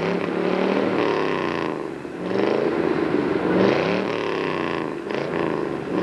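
A car engine revved up and down again and again, its pitch climbing and falling about every second or two.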